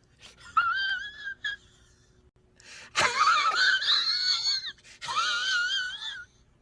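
A comedic sound effect: a high-pitched, wavering wail, heard three times, the middle one loudest and starting with a sudden burst.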